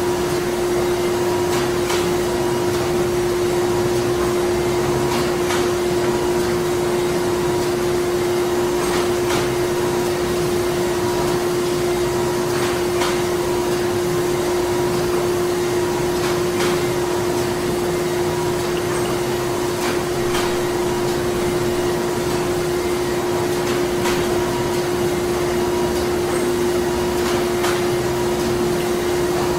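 Printing plant machinery running: a steady drone with a strong low hum, a fainter higher tone that comes and goes, and irregular sharp clicks.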